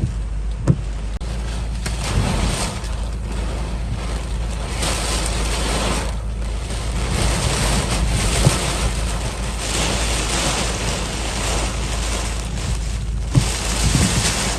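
Typhoon wind blowing hard in gusts, buffeting the microphone with a deep rumble, with a few short thumps.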